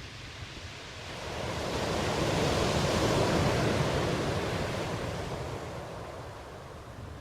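Ocean surf: one wave swells up about a second in, is loudest near the middle, and fades away again.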